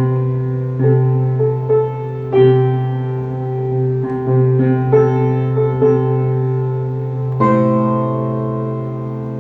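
Slow piano music: a series of held notes and chords, ending with a final chord about seven and a half seconds in that is left to ring and slowly fade.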